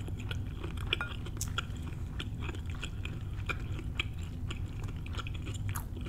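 Close-miked chewing of a mouthful of shrimp and bell pepper stir fry: a steady run of soft, wet clicks and small crunches over a faint steady low hum.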